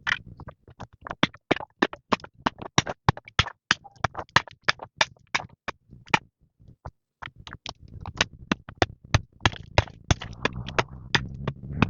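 A rapid series of sharp knocks or taps, about three to four a second, pausing briefly about six seconds in, then going on.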